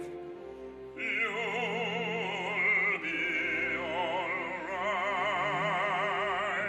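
Operatic singing from a live opera performance: a voice holds long notes with wide vibrato over steady instrumental accompaniment, with a dip and re-entry about a second in and again near the three-second mark.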